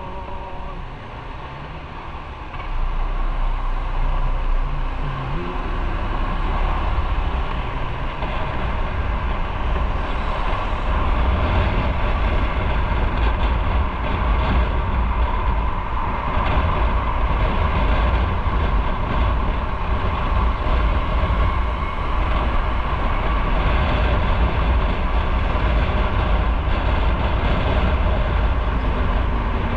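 Motorcycle riding on the road: engine and road noise with a heavy low rumble. It grows louder about three seconds in and then holds steady.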